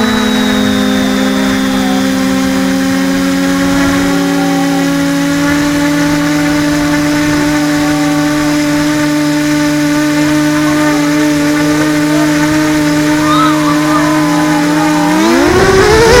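Radio-controlled model airplane engine running at a steady high pitch, then revving up sharply near the end.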